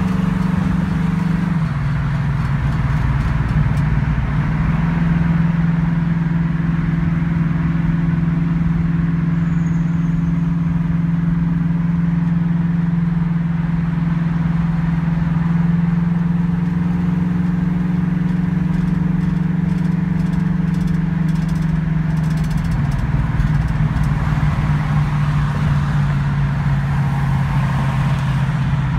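1965 Ford Mustang engine cruising at steady freeway speed, heard from inside the cabin, exhausting through Flowmaster mufflers, over road and wind noise. The engine note drops slightly about two seconds in, climbs back a couple of seconds later, and drops again about three quarters of the way through.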